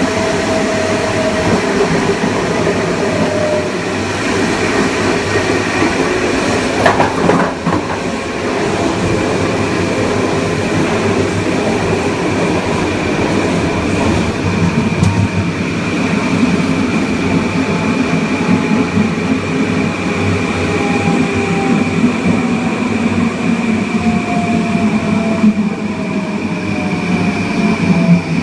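Kawasaki M9 electric multiple unit running, wheels rumbling on the rail under a steady high whine. About seven seconds in there is a single sharp clack. From about halfway on, the tone of the IGBT-VVVF inverter and MELCO AC traction motors falls steadily in pitch as the train slows.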